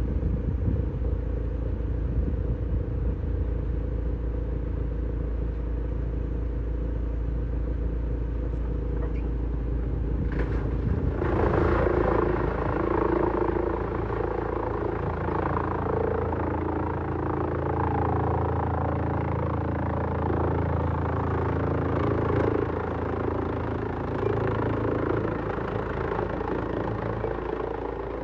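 Heavy-duty wood shredder running with a steady, loud mechanical drone. About eleven seconds in the sound turns rougher and busier, as the machine takes in and grinds wood.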